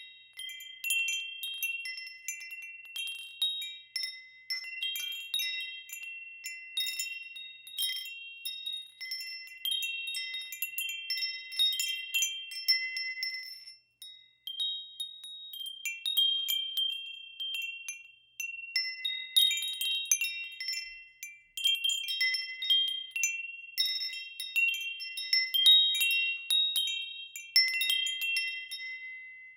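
Wind chimes ringing in the breeze: many high, clear tones struck again and again and overlapping as they ring on, with a brief lull about halfway through.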